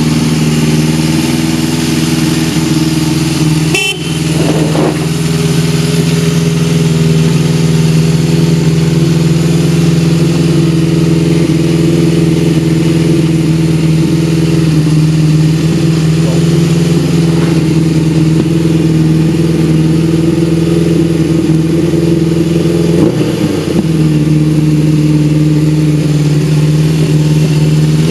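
Honda CB750G's air-cooled inline-four engine idling steadily, with a sharp click about four seconds in and a brief change in tone near the end.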